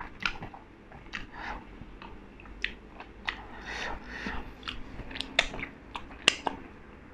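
A man chewing a mouthful of sauce-coated fried chicken, making a run of short, wet smacking and clicking mouth sounds, with a sharper smack about six seconds in as he sucks sauce off his fingers.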